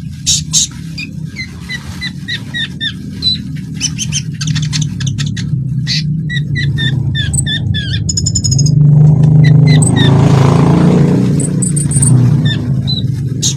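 A konin songbird singing a fast string of sharp chirps, clicks and short falling whistles over a steady low hum. Between about nine and twelve seconds in, a louder rushing noise swells and fades under the song.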